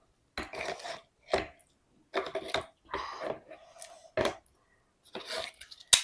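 A spoon scraping and clinking against a plate of food in a string of short strokes, with one sharp clink near the end.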